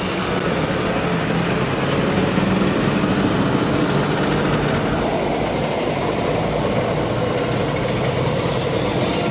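Motorcycle engine running under way, with steady engine tones, and its note shifting about five seconds in.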